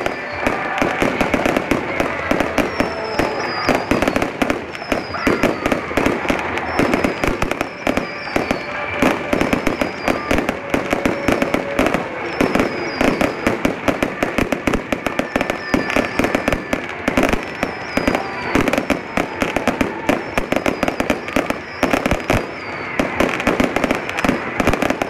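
Fireworks display going off in a continuous barrage of bangs and crackling, with no pause. A short falling whistle recurs every couple of seconds.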